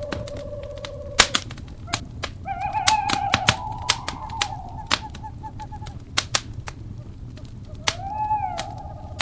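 Wood fire crackling with frequent sharp pops and snaps. An owl hoots in long, wavering calls: one ends about a second in, a longer one comes a few seconds in, and another starts near the end.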